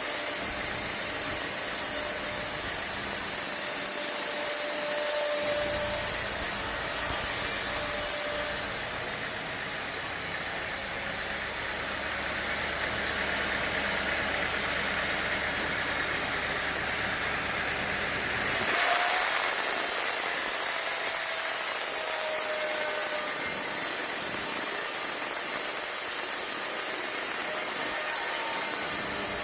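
Sawmill machinery running steadily, a mechanical drone with hiss. About a third of the way in the sound turns duller and deeper for around ten seconds, then returns to the hissing drone.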